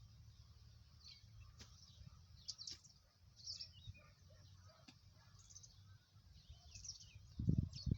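Small birds chirping now and then over a faint low rumble of outdoor ambience, with two dull thuds near the end.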